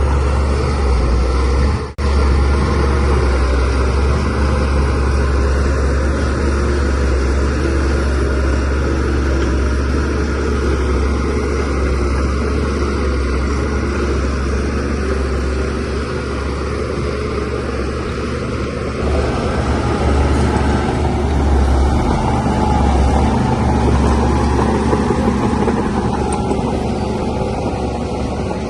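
DH17C3PRO bulldozer's diesel engine running steadily with a deep rumble, as the dozer works soil. The sound cuts out for an instant about two seconds in.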